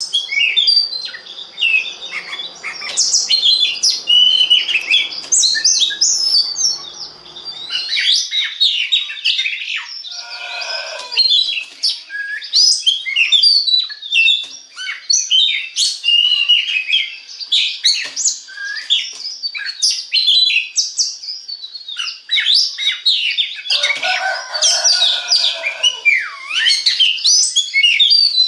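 Oriental magpie-robin (kacer) singing a rapid, continuous, varied song of high chirps and whistles, with a couple of lower passages about ten seconds in and near the end.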